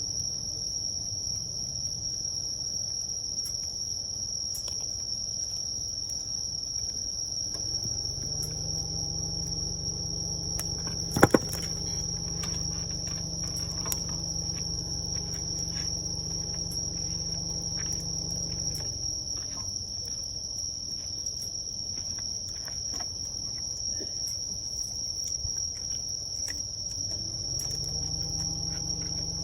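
Campfire crackling with scattered pops, one sharp loud pop about eleven seconds in, over a steady high chirring of insects. A low hum swells in about eight seconds in and fades out some ten seconds later.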